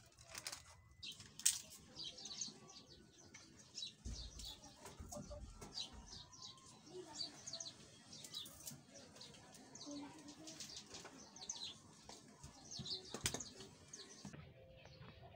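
Small birds chirping over and over in short, quick, high notes, faint. A few sharp clicks stand out, the loudest about a second and a half in and another near the end.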